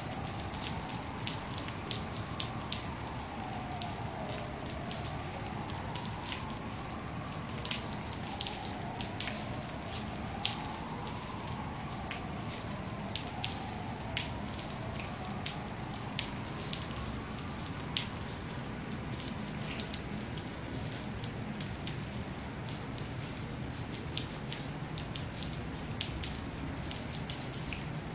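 Steady rain falling, with many individual drops ticking sharply close to the microphone over a low steady hum. A faint wailing tone rises and falls every few seconds and fades out about two-thirds of the way through.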